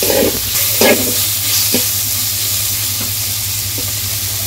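Food sizzling in a cooking pan while being stirred with a spatula: two scraping strokes in the first second, then steady sizzling with a low hum beneath.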